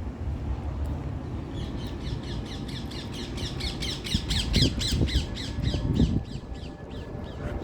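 A bird calling in a rapid series of short, harsh, falling notes, about four a second, swelling to its loudest in the middle and then fading. Underneath runs a low rumble with a few dull thumps.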